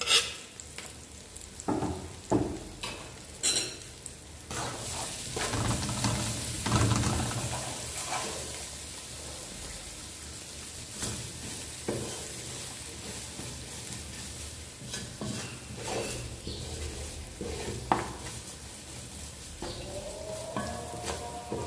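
Onions frying in hot oil in a pan, sizzling steadily while a spoon stirs, scraping and knocking against the pan. There are several sharp knocks in the first few seconds, then a steady sizzle with occasional clicks.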